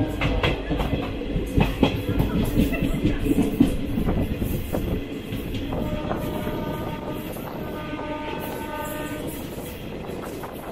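Express passenger train running at speed, its wheels clattering over the rail joints with a low rumble, heard from a carriage door. About six seconds in, the locomotive's horn sounds twice, each blast about a second and a half long, as the clatter eases.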